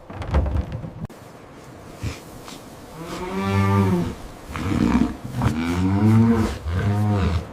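Cattle mooing: several long, low calls, the first starting about three seconds in and the others following close together to the end.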